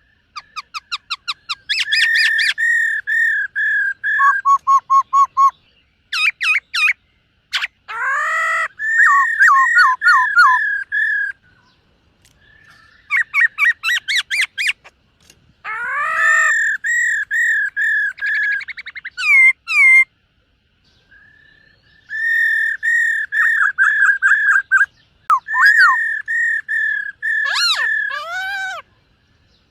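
White-cheeked laughingthrush singing: several loud bouts of quickly repeated whistled notes, broken by short pauses.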